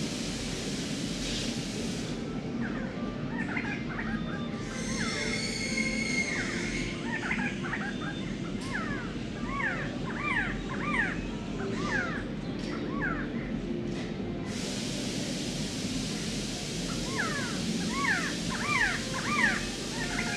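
Bird calls, short arched notes in quick series, over a steady low hum and hiss in a layered field-recording soundscape. The calls pause for a few seconds after about 14 s and start again near the end.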